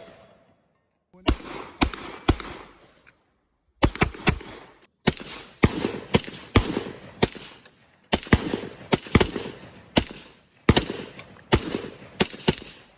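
Gunshots from a firearm fired one after another, at roughly two a second, in several strings with short breaks between them.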